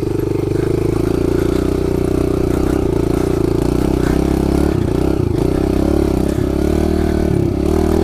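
Kawasaki KLX110 pit bike's small four-stroke single-cylinder engine running at steady high revs under load, with brief dips in pitch a little before the middle, around the middle and near the end as the throttle is eased.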